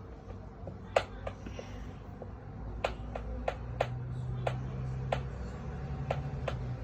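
A series of about ten sharp, irregularly spaced clicks or taps, with a faint low hum coming in about halfway.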